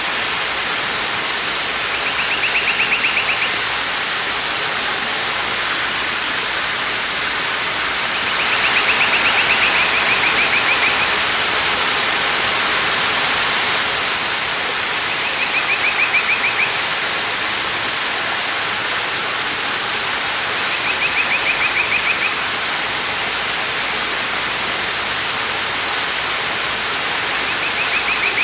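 Waterfall rushing steadily. Over it, a short rapid trill sounds five times, each about a second long, roughly every six seconds.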